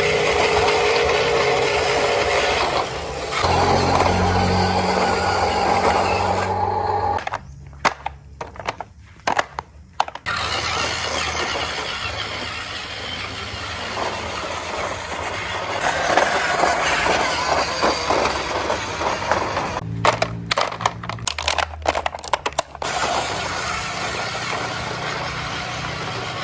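Huina 1573 radio-controlled dump truck running on its electric motor and geartrain: a steady whine and low hum that shift in pitch as it drives, over crunching and rattling from the rock load and ground. Twice it falls much quieter for a few seconds, with a few scattered clicks.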